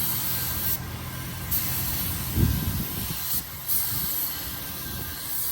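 Paint spray gun hissing in repeated passes, the trigger pulled and released so the hiss stops and starts three times, each pass a second or two long. A low thump sounds about two and a half seconds in.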